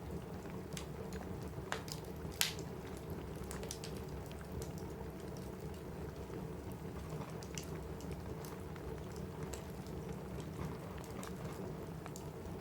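Steady rain with a wood fire crackling, its scattered sharp pops and snaps strongest about two and a half seconds in.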